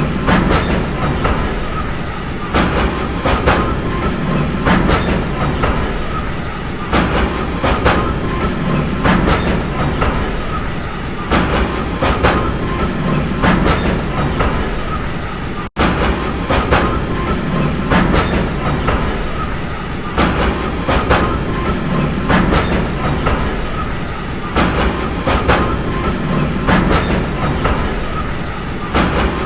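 Train running steadily on the rails: a continuous rumble with clickety-clack wheel clicks in pairs about every two seconds as the wheels cross rail joints, and a faint steady whine over it. The sound cuts out for a split second about halfway through.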